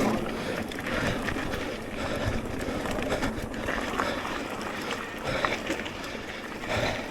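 Riding noise of an electric mountain bike on a dirt trail: wind rushing over the microphone, tyres rolling and the bike rattling with frequent small knocks.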